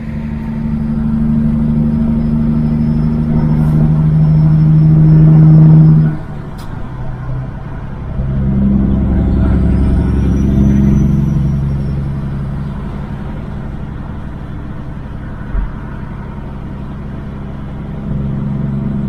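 Kenworth W900 semi truck's Caterpillar diesel engine pulling under load, getting louder until about six seconds in, then dropping off suddenly as at a gear change. It builds again and settles into a steady run.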